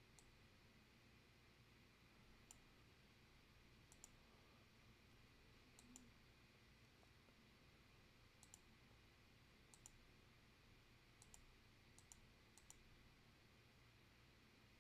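Near silence with faint, scattered computer mouse clicks, about a dozen, several in quick pairs.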